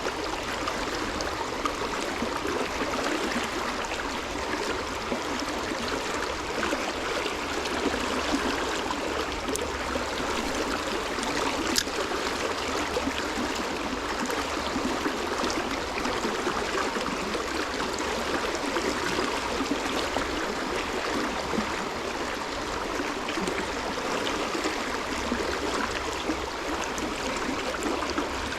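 Running water flowing steadily, like a stream, with one brief click about twelve seconds in.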